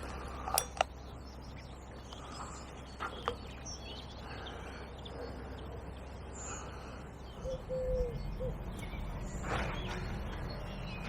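Birds calling outdoors: three short calls about halfway through, with a few sharp clicks and knocks scattered over a faint low background.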